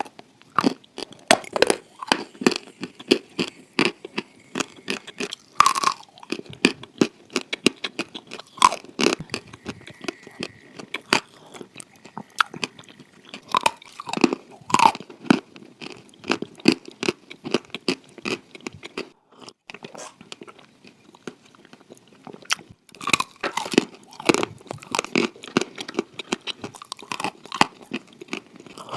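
A person biting and chewing clay, with irregular crisp crunches coming several times a second.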